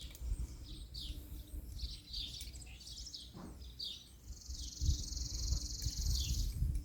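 Outdoor birdsong: songbirds giving repeated short, falling chirps, with a long, even high trill from about four seconds in until near the end. A low rumble runs underneath.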